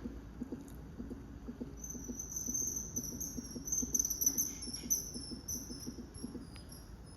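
Common kingfisher giving a rapid string of shrill, high, thin call notes, starting about two seconds in and fading out near the end.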